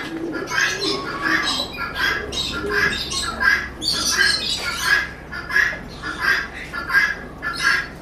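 Caged birds squawking: a steady run of short, high-pitched calls, about two a second.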